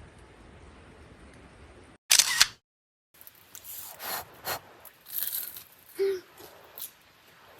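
A loud, short camera shutter click about two seconds in, followed by a series of softer clicks and rustles of handling.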